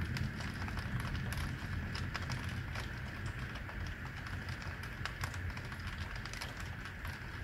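Heavy rain falling over the city, with a dense, irregular patter of drops clicking on a nearby surface over a steady rain hiss. A low rumble runs underneath and slowly fades.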